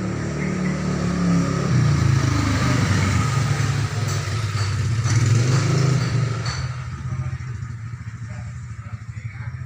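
A motor vehicle engine running steadily, loud for the first six seconds or so and then fading.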